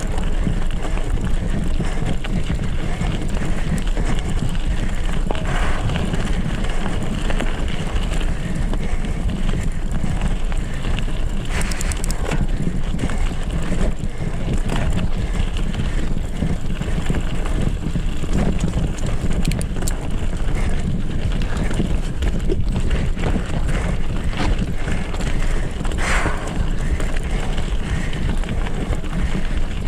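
Wind buffeting the microphone while a mountain bike rolls along a dirt trail: a steady low rumble with a few short rattles and clicks from the bike over rough ground.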